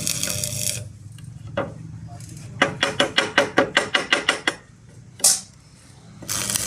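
Hammer blows on iron at a blacksmith's forge: a quick, even run of about a dozen strikes, roughly six a second, with one lone blow before the run and one after it. A steady rushing noise cuts off about a second in and starts again near the end.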